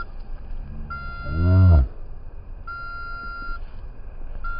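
Electronic beeping from an RC helicopter setup: a steady high beep just under a second long, repeating about every two seconds. About a second and a half in, a short whir rises and falls in pitch and is the loudest sound. The sound cuts off suddenly at the end.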